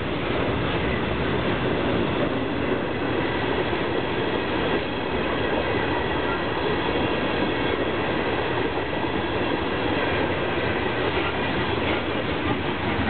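CSX freight train of tank cars rolling past close by: a loud, steady rumble of steel wheels on the rails.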